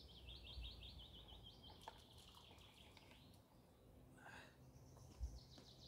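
Faint songbird song in woodland: a fast trill of repeated high notes lasting about three seconds, then a short call about four seconds in, over quiet background.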